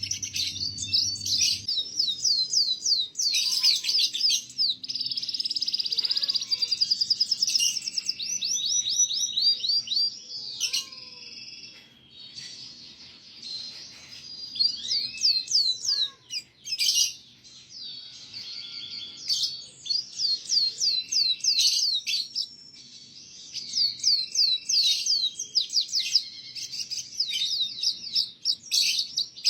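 Domestic canary singing a long song of fast trills and rapid repeated chirps, high-pitched, with a couple of short lulls between phrases.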